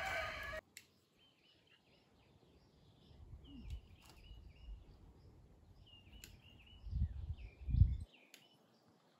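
Faint birdsong in a garden: scattered short chirps and warbles, with two brief low rumbles near the end.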